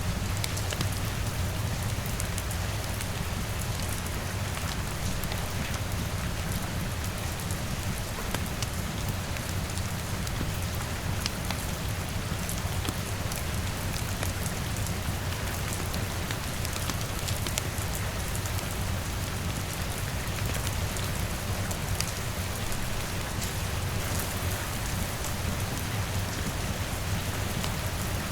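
Steady rain on a window: an unbroken hiss with a low rumble underneath and scattered sharp ticks of drops.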